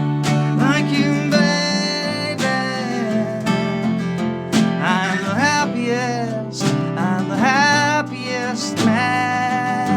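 Live band music led by acoustic guitar, played without lyrics: a lead melody slides and wavers in pitch over steady low chords.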